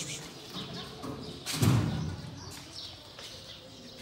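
Faint chirping of small birds, with one dull thump about one and a half seconds in, the loudest sound.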